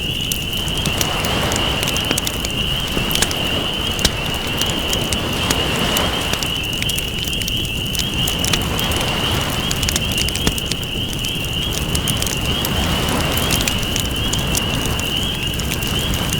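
Wood campfire crackling with many sharp pops, over ocean waves that swell and recede every few seconds. A steady high-pitched drone runs underneath.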